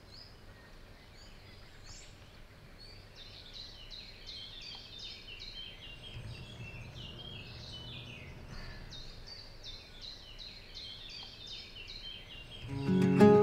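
Birds chirping: a long, rapid run of short falling chirps over a faint low hum. Acoustic guitar music starts near the end.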